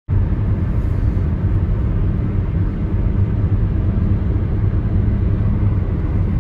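Steady low rumble of a vehicle driving along.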